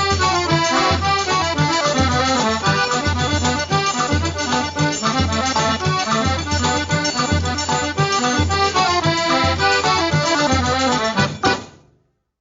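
Accordion-led traditional dance music with a steady bass beat, stopping abruptly on a final hit near the end.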